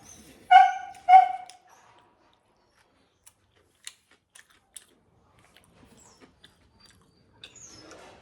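A dog barks twice in quick succession, short and high-pitched, followed by faint scattered clicks.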